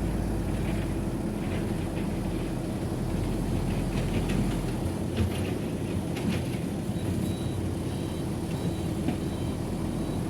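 Heavy diesel earthmoving machinery running steadily, with scattered metallic clanks and rattles through the middle. A faint high whine comes in about two-thirds of the way through.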